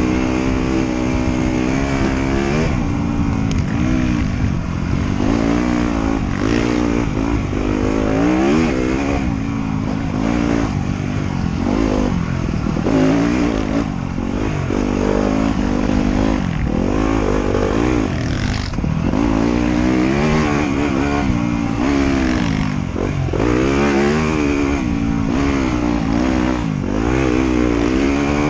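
Trail motorcycle engine revving up and down over and over as it is ridden, the pitch climbing and dropping every second or two, over a steady low rumble.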